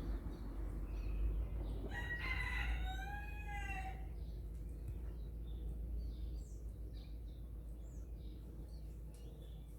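A rooster crows once, a single call of about two seconds that rises and falls in pitch, over a steady low rumble. Small birds chirp faintly later on.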